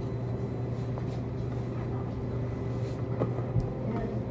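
Steady low hum of running laundromat machines, with a few faint clicks and knocks over it.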